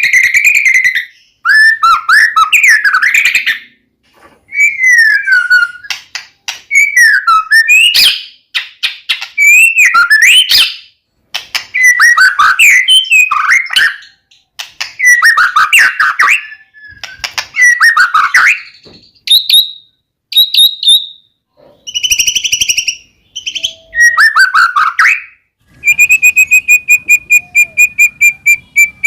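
White-rumped shama singing loud, varied phrases of sweeping whistles and chatter, separated by short pauses. Near the end it changes to a fast run of one repeated whistled note, about four to five a second.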